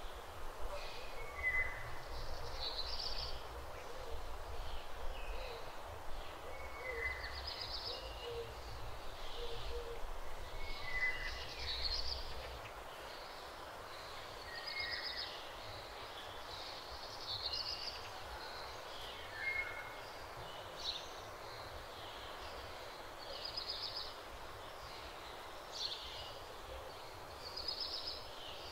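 Birds calling: short high chirps and whistles every second or two over a steady outdoor hiss, with a low rumble during the first half that fades out about halfway through.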